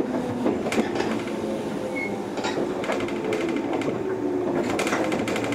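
Cabin sound of a JR 103-series electric train running slowly, with a rhythmic rattling clatter from wheels and car body and a low whine that drifts in pitch.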